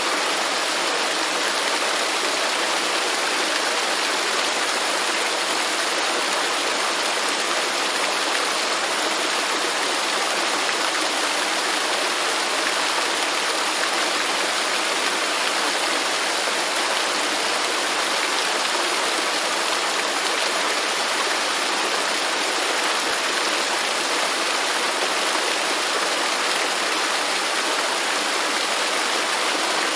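Waterfall rushing steadily: a dense, even hiss of falling water that does not change, bright and airy with little deep rumble.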